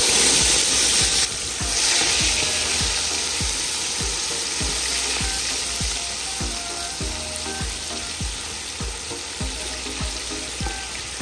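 Tomatoes frying in hot oil and caramelized brown sugar: a loud sizzle that starts strong and slowly dies down.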